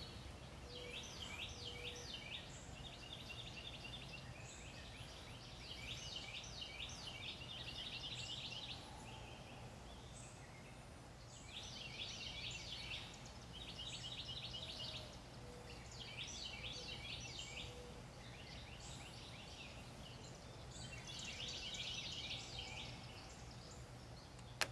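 Small bird singing: repeated high trilled phrases, each a second or two long with short pauses between, over a steady low background rumble.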